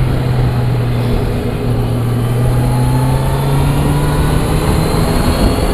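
Motorcycle engine running at highway speed under wind and road noise, its note climbing slowly as the bike gathers speed.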